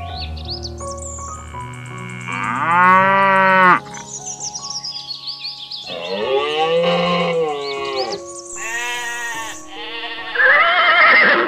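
Cow mooing sound effects, about four drawn-out moos with rising-then-falling pitch, over background music; the last call is higher-pitched.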